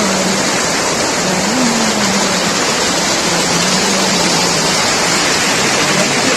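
Waterfall rushing, a loud and steady hiss of falling water.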